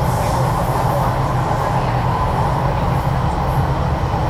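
Steady rumble and hum heard inside a Stockholm commuter train car as it runs on the rails, with no distinct clicks or squeals standing out.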